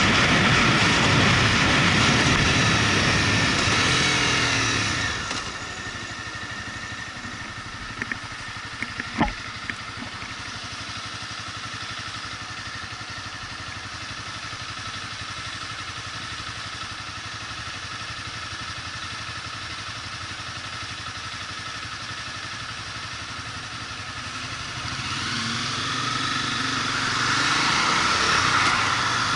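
Motorcycle engine heard from the rider's position, with wind noise while riding. About five seconds in it drops to a quieter, steady running sound for roughly twenty seconds, with a few sharp clicks a few seconds into that stretch. It picks up again near the end, the engine note rising as the bike accelerates away.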